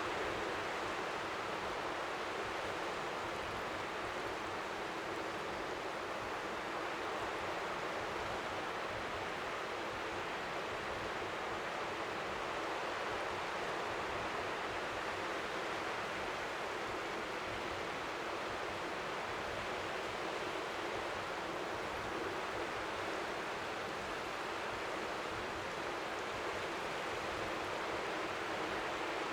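Steady, even rush of strong wind at the seashore, with faint waves lapping at the shore beneath it.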